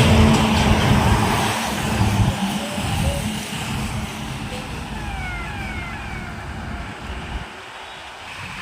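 A truck passing close on a highway: engine rumble and tyre noise loudest at the start, then fading away. A few short falling tones sound about five seconds in.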